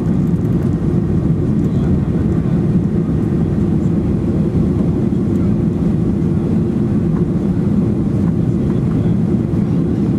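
Boeing 737-800's CFM56-7B jet engines running steadily, a dense low rumble with no change in pitch or level.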